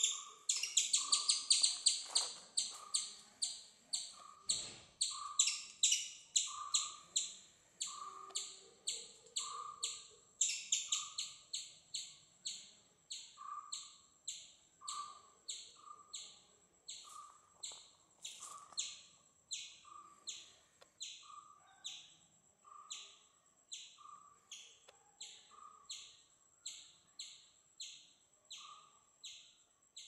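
Repeated high bird chirps, about one and a half a second, each falling in pitch, with a lower note about once a second beneath them. They start abruptly, are loudest for the first ten seconds or so, and then slowly grow fainter.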